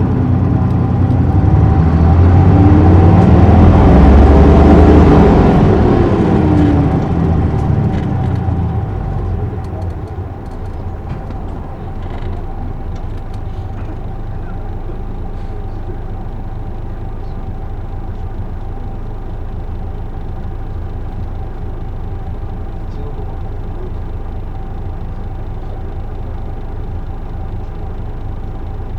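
Isuzu Erga city bus's six-cylinder diesel engine pulling hard, its pitch rising and then falling over the first several seconds. From about ten seconds in it settles to a steady low running sound.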